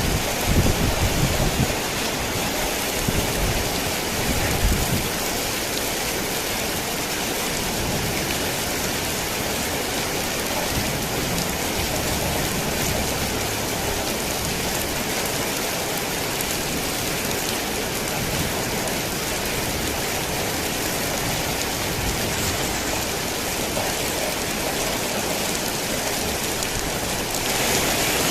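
Heavy rain drumming steadily on a tin roof, with a low rumble of thunder in the first few seconds that fades out. Just before the end the rain gets a little louder and brighter.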